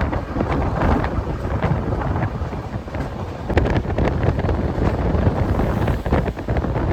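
Moving express train heard from on board: a steady rumble of the coach running at speed, with scattered clicks and knocks of the wheels over the rails, and wind buffeting the microphone.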